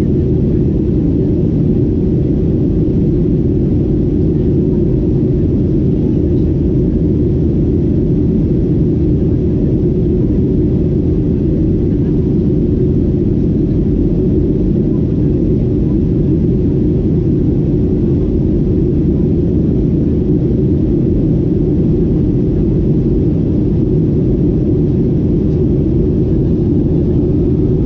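Boeing 737-800 in flight: a steady, deep noise of engines and airflow, even throughout with no changes.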